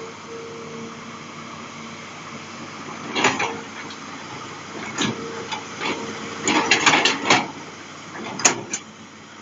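Hitachi Zaxis 200 excavator with its Isuzu 6BG six-cylinder diesel running steadily under a faint held whine, broken by several short metallic clunks and rattles, most of them clustered about two-thirds of the way in.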